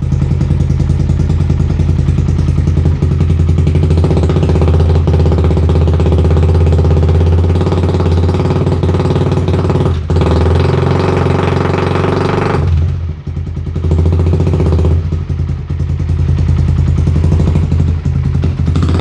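Suzuki Satria FU 150's single-cylinder four-stroke engine running through a bobokan (gutted, baffle-less) exhaust, giving a loud, raw exhaust note. It runs steadily, goes softer and duller about two-thirds of the way in, then picks up again.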